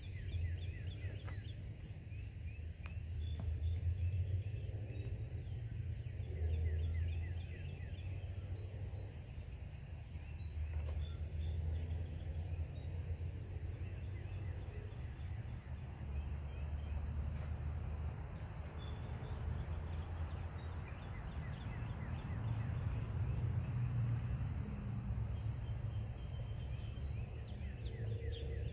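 Small birds chirping repeatedly in the background over a loud, uneven low rumble.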